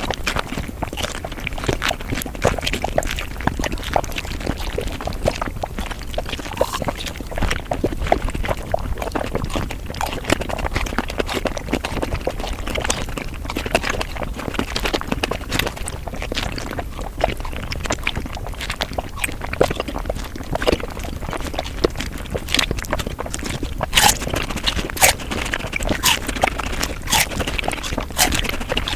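Mukbang eating sounds sped up five times: chewing and mouth noises packed into a dense, unbroken run of quick clicks and crackles.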